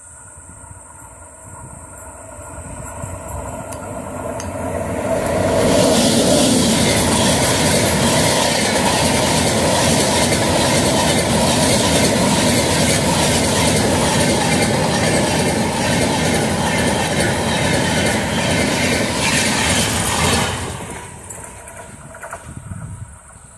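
Passenger express train passing at speed close to the track. Its rumble builds over a few seconds, then a loud steady rush of coaches running on the rails lasts about fifteen seconds, with some clickety-clack. It falls away quickly as the last coach goes by.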